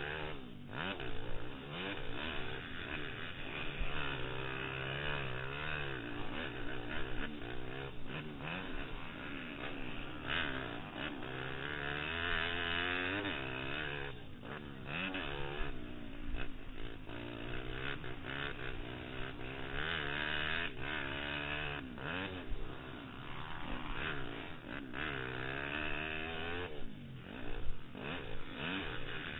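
Pitster Pro LXR160 pit bike engine being ridden hard, its revs rising and falling again and again, heard through a helmet-mounted camera.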